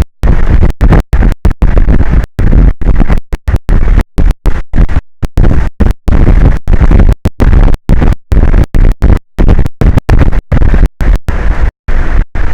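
Strong wind buffeting the microphone, loud and rumbling, broken every fraction of a second by abrupt cut-outs where the audio drops to silence.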